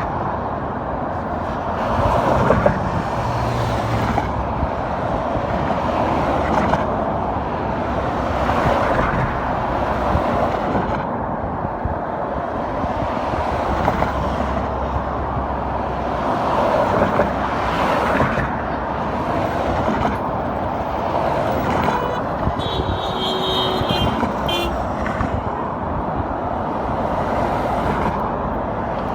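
Road traffic: cars passing one after another, their tyre and engine noise swelling and fading every few seconds, with a brief higher-pitched squeal about three-quarters of the way through.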